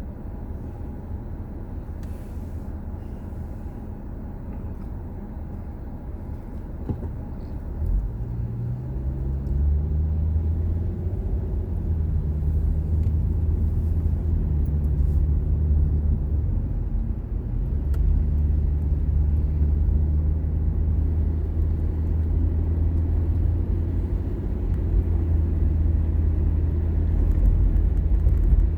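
Car engine and road rumble: idling low at first, then rising in pitch and getting louder about eight seconds in as the car pulls away, and running on at a steady cruise with a brief dip in the engine note about seventeen seconds in.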